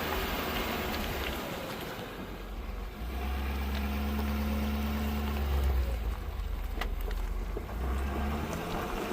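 Ford Super Duty pickup driving with its front hubs locked in four-wheel drive: a steady low engine and road rumble, with a held hum for a couple of seconds midway and a single sharp click near the seven-second mark.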